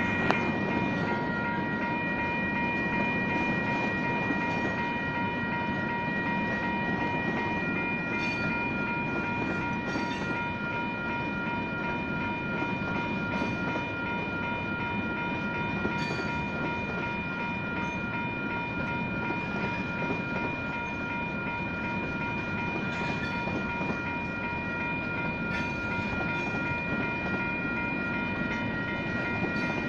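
Railroad cars rolling past a grade crossing with a steady rumble and occasional sharp clicks from the wheels, while the crossing's WCH Type 1 bells keep ringing.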